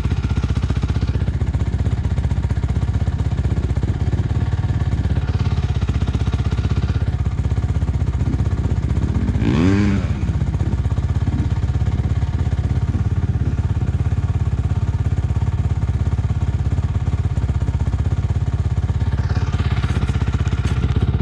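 A vehicle engine running steadily with a fast, even pulse. About ten seconds in there is a short sound that rises and then falls in pitch.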